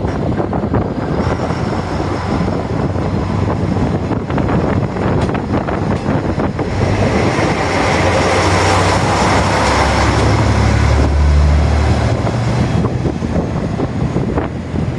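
1200-series diesel railcar running on the line: its diesel engine drones under the rumble and clatter of wheels on rail. It grows louder to a peak about two-thirds of the way through, then eases off.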